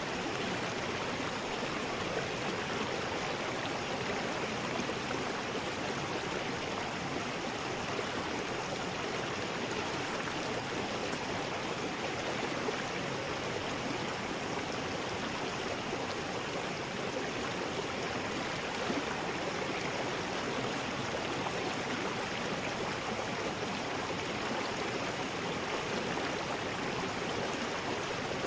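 River rapids: fast water rushing steadily over rocks, a continuous even roar.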